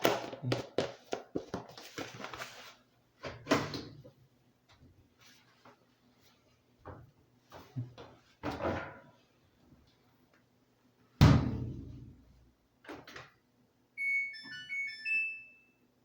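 Samsung WA45T3200AW top-load washer being set going: knocks and clatters, then a heavy thunk about eleven seconds in. Near the end its control panel plays a short electronic chime tune.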